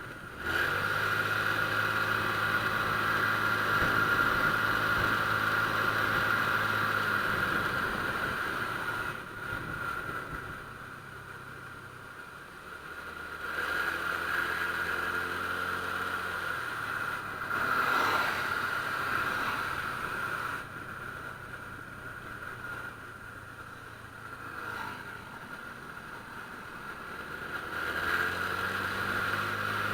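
Honda Click scooter engine running on the move, the throttle opened and eased off several times so the engine note rises and falls, over a steady high whine.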